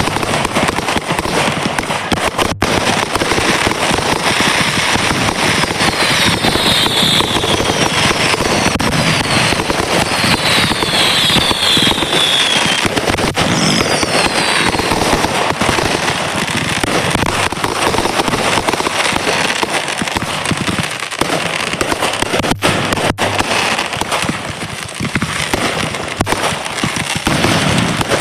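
Fireworks going off in a dense, continuous barrage of crackling and popping. Several short falling whistles come through in the middle stretch.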